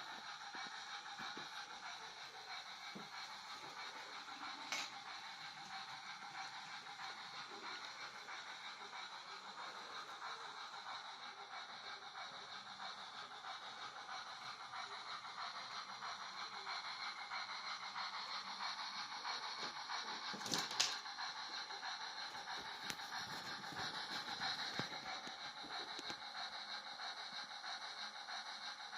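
A steady mechanical whirring noise from a vehicle, the fault noise the owner is recording, with a sharp click about five seconds in and a louder one about twenty-one seconds in.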